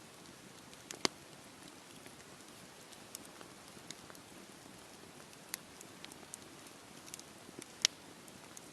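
Wood fire crackling in a fireplace: a faint steady hiss with scattered small pops, and two sharp, louder pops about a second in and near the end.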